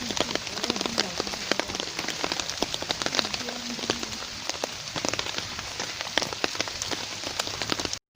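Big logs burning in a campfire, crackling with sharp, irregular pops and snaps over a steady hiss.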